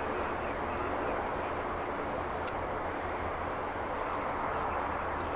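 Aircraft engines running with a steady rushing noise and a low rumble underneath.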